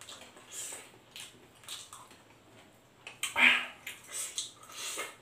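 Close-up mouth sounds of a person eating fried chicken and rice: wet chewing and lip-smacking in irregular bursts, the loudest about three and a half seconds in.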